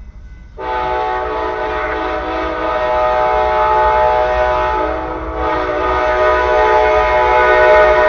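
Amtrak locomotive horn sounding one long, loud blast of several tones together, starting just under a second in and briefly dipping near the middle: a warning blast at someone crossing the tracks ahead of the train. A steady low rumble from the train lies underneath.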